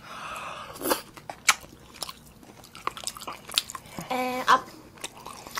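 Close-up chewing and mouth sounds of someone eating braised chicken with glass noodles: wet smacks and sharp little clicks scattered irregularly throughout. A brief voiced sound comes about four seconds in.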